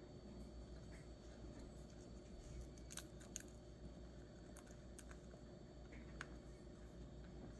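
Cockatiel eating, cracking seeds: a handful of faint, sharp clicks, the loudest about three seconds in, over a low steady hum.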